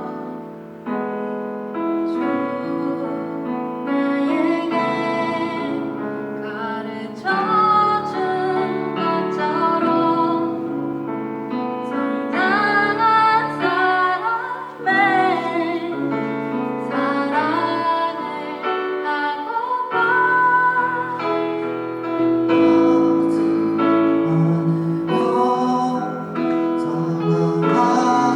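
Korean worship song sung by a female voice over piano accompaniment, the melody carried in long held phrases.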